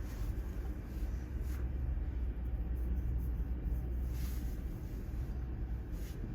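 Steady low rumble of wind buffeting the microphone over the sound of typhoon-driven surf, with a few brief swells of hiss.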